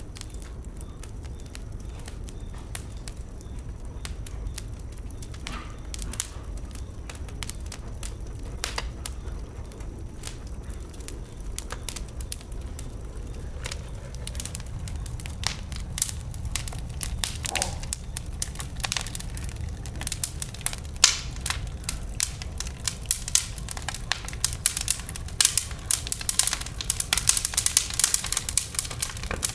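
Wood burning in a bonfire, crackling with sharp pops over a steady low rumble; the pops grow more frequent and louder in the second half.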